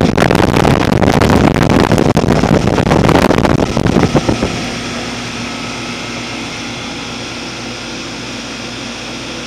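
Outdoor unit of a Goodman 3.5-ton heat pump running in heating mode, with the steady hum of its compressor and fan. For the first four seconds or so a loud, gusty rushing lies over it, then it settles to the plain hum.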